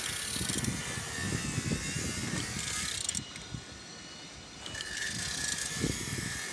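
Mercedes OM646 diesel engine being turned over by hand with a tool: irregular mechanical clicks and clunks, going quieter for a second or so midway. The engine turns freely.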